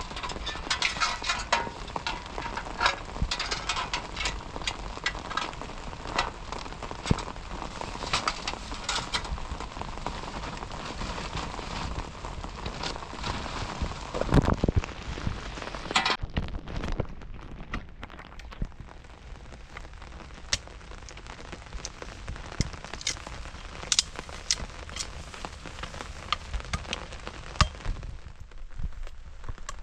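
Rain falling, with many sharp crackles and taps over a steady hiss; about halfway through it thins out and gets quieter, with fewer, sparser taps.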